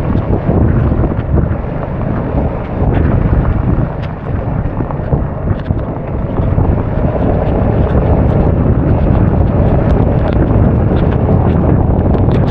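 Heavy wind buffeting on an action camera's microphone while riding a scooter at speed, a steady low rumble with scattered small ticks.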